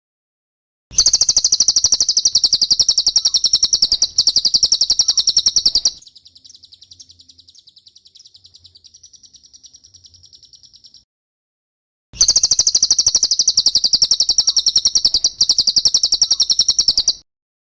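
Cililin bird song: fast, high-pitched trills, loud, in two long runs of about five seconds each, with a softer trill after the first run and a pause of about a second before the second.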